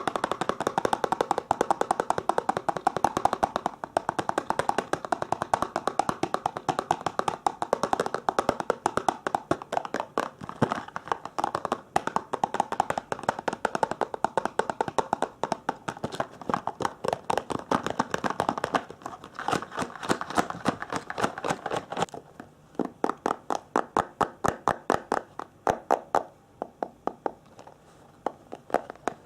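Fast tapping on a hard object as an ASMR trigger, many quick taps a second, slowing to a few separate taps a second for the last seven seconds or so.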